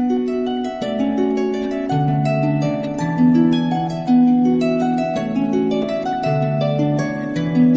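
Celtic harp playing a slow melody of plucked notes over a low line, each note ringing on.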